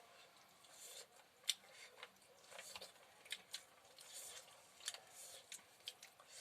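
Faint eating sounds: soft, scattered clicks and smacks of chewing and handling food, a few sharper ticks among them.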